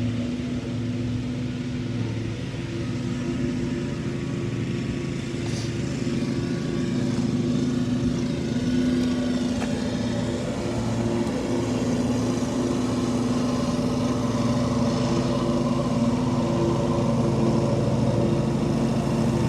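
Riding lawn mower engine running steadily at an even speed, a constant low hum.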